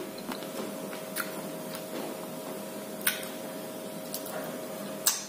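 Chewing a chocolate-coated ice cream bar with nut pieces and wafer: scattered sharp crunches from the hard coating, about six over five seconds. A faint steady hum runs underneath.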